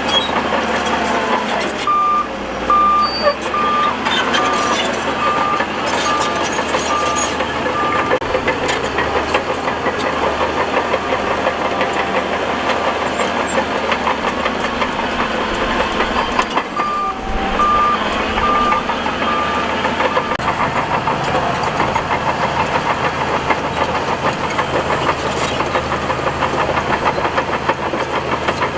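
Heavy bulldozer engine running steadily while working. A reversing alarm beeps about twice a second in two runs: the first from a couple of seconds in, the second near the middle.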